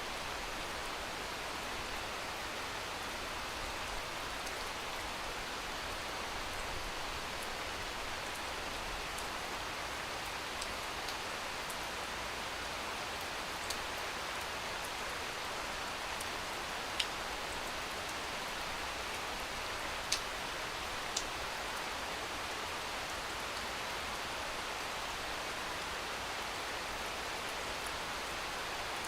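Steady rain falling, with a few sharp drip ticks around the middle.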